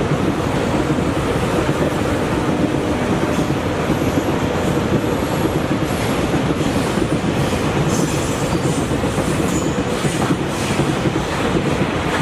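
A train running along the track, its wheels clattering steadily over the rails, with a faint high wheel squeal partway through and some sharp clicks near the end.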